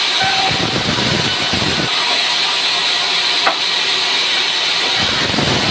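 Sawmill running with a steady loud hiss and a low rumble that comes and goes twice. A single sharp click comes about three and a half seconds in.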